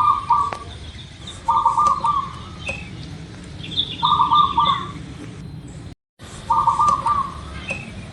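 Zebra dove (perkutut) cooing: a short, rapidly pulsed, trilling coo repeated about every two and a half seconds, three full calls and the tail of one more. Faint higher chirps of other small birds sound between them, and the sound cuts out briefly about six seconds in.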